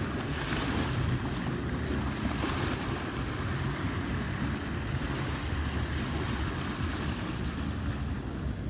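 Ocean surf washing on the shore, with the hiss of the waves swelling a couple of times, under low rumbling wind buffeting the microphone.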